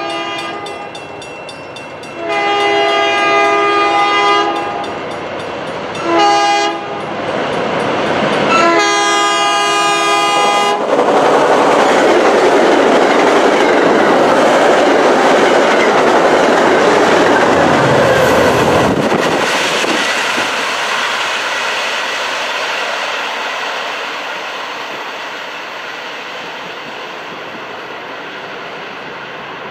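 MBTA commuter train sounding its horn for a grade crossing: the end of a long blast, then a long, a short and a long. The train then passes at speed, wheels clattering over the rail joints, and the noise fades as it goes by.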